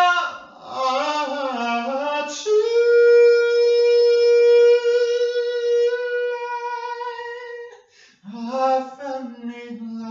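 A person singing without clear words: a few bending phrases, then one long note held steady for about five seconds, then more phrases after a short breath.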